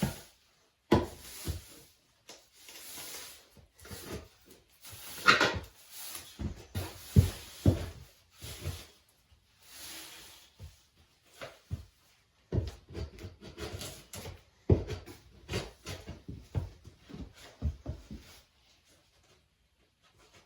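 Debris being swept and scraped up into a dustpan, a run of irregular scrapes with knocks. The scraping stops about eleven seconds in, followed by a string of light knocks and clatters.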